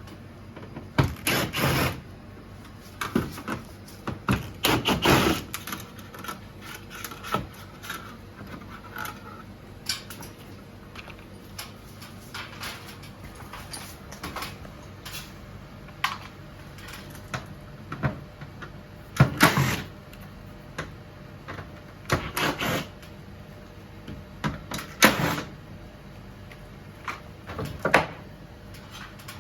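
Irregular knocks, clicks and short clatters of hard parts being handled, with pauses between them. The loudest come about a second in, around five seconds, and several times in the second half.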